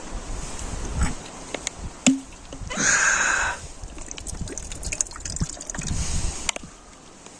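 Water poured briefly, a splashy hiss lasting under a second about three seconds in, with a small knock just before it and small clicks of camp cooking gear over low wind rumble.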